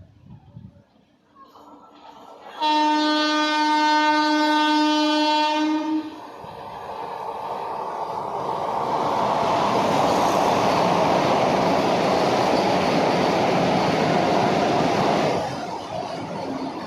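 An Indian Railways express train sounds a steady horn for about three seconds, then rushes past with a loud rumble and rattle of wheels on rail that builds up and drops off sharply near the end.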